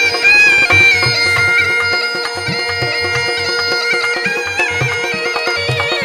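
Rajasthani folk instrumental music: a murli (been) reed pipe playing an ornamented, gliding melody over its own steady drone, with kamaicha and morchang in the ensemble and a low regular beat beneath.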